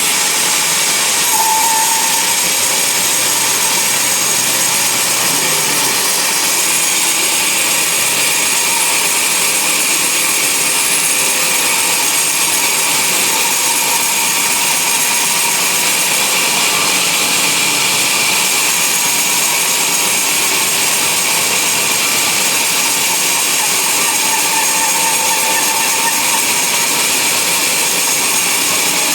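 Band sawmill running steadily, its blade cutting through a log.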